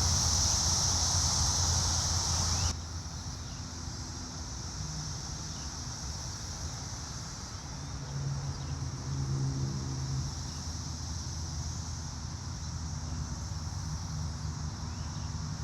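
Chorus of Brood X periodical cicadas, a steady high buzz. It is loud for the first few seconds, then drops suddenly to a softer level. A low vehicle hum rises under it in the middle.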